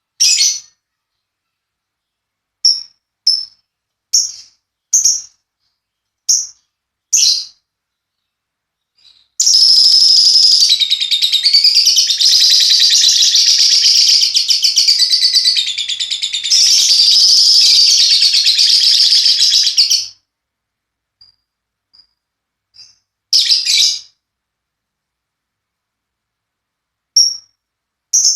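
Lovebird calling: about seven sharp, high chirps in the first eight seconds, then a long, unbroken, rapidly pulsing chatter lasting about ten seconds. This is the extended 'ngekek' trill that lovebird keepers prize. A few more sharp chirps follow near the end.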